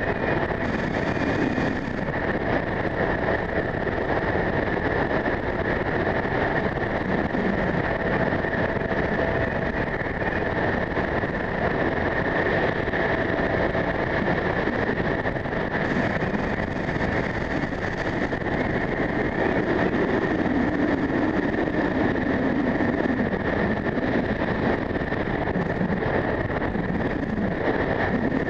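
Strong wind blowing across the microphone: a loud, steady rush with a constant high tone running through it.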